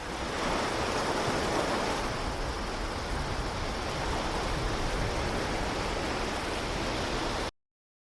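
Steady rushing noise with no tones in it, like running water. It swells in at the start and cuts off abruptly near the end.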